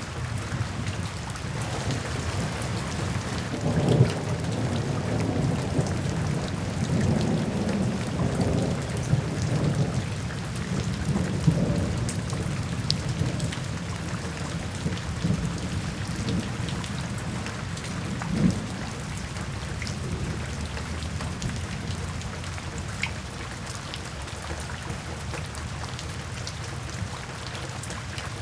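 Steady rain falling, with rolling thunder rumbling through the first half and a last swell of thunder a little after the middle, then easing off.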